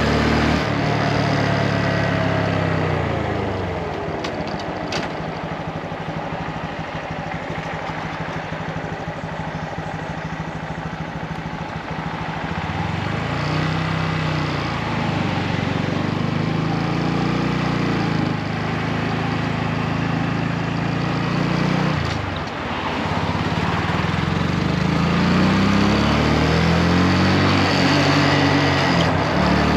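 Motorcycle engine under way on the road, its pitch falling as it slows in the first few seconds, then rising again under acceleration about halfway and near the end, with a short dip about three-quarters through, as at a gear change. A steady rush of wind noise runs underneath.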